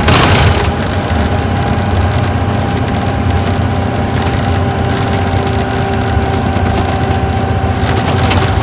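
Isuzu Gala coach's V-type diesel engine running under way, heard from inside the cabin: a steady low rumble with a high whine that slowly falls a little, and light clicking and rattling throughout. A brief rush of noise comes right at the start, with a smaller one near the end.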